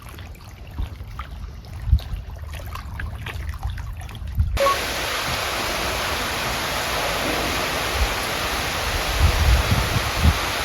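Outdoor seaside noise: low wind rumble on the microphone with a few faint knocks, then an abrupt cut a little under halfway to a steady, even hiss of sea and wind.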